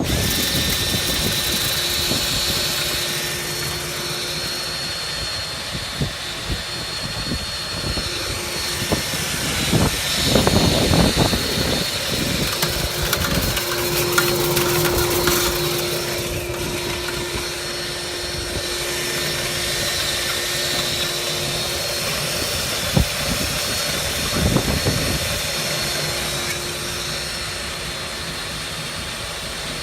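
Powerful blower motor of dryer-vent cleaning equipment running steadily with a high whine and a low hum, growing louder for a couple of seconds about a third of the way in.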